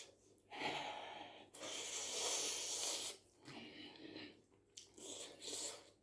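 A person eating spaghetti close to the microphone: four breathy, hissing bursts about a second long each, with short pauses between them.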